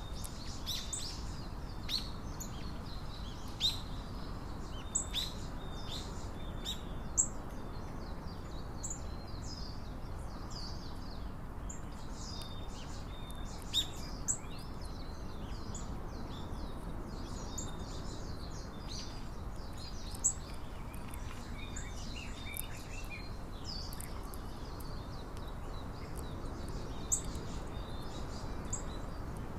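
Small songbirds chirping and calling, many short, sharp high chirps scattered throughout, some notably louder than others, over a steady low outdoor hiss.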